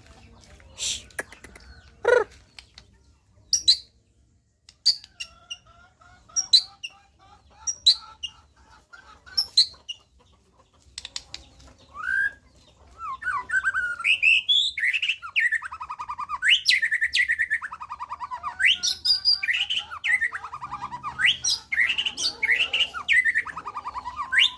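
White-rumped shama (murai batu) giving short, sharp calls every second or so, then about halfway through breaking into a continuous song of varied rising and falling phrases.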